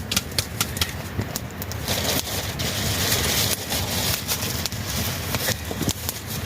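Crackling with many sharp, irregular pops, typical of a wood cooking fire, and a hiss that rises about two seconds in and lasts over a second.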